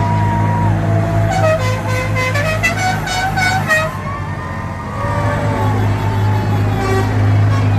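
Tractor engines running steadily, with vehicle horns tooting over them, including a quick run of several short horn notes in the first half.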